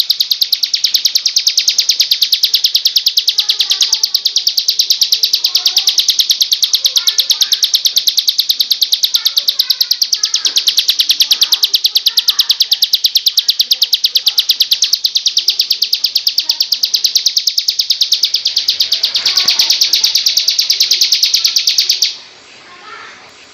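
Plain prinia (ciblek sawah) giving its loud, continuous 'ngebrem' call, a rapid buzzing trill of very fast repeated notes, which cuts off abruptly near the end. Fainter short chirps of other birds sound underneath.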